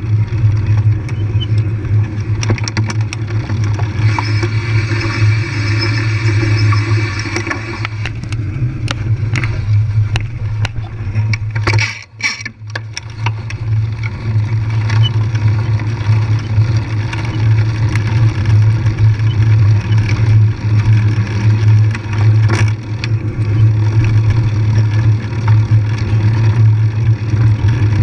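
Bike ride on a trail: a steady low hum with noise and frequent short rattles and clicks, dipping briefly about twelve seconds in.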